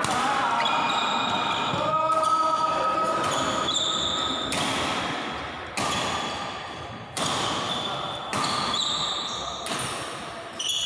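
Badminton rally: sharp racket hits on the shuttlecock about once a second, in an echoing hall, with short high squeaks of shoes on the court floor between the hits.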